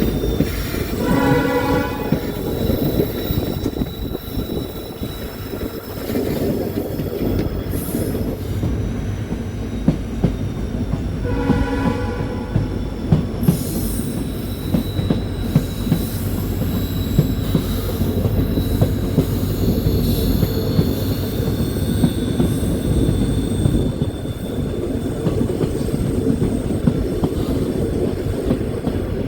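Passenger train running on the rails, a steady rumble with wheel clicks over the rail joints, and two short train horn blasts, one about a second in and one about twelve seconds in.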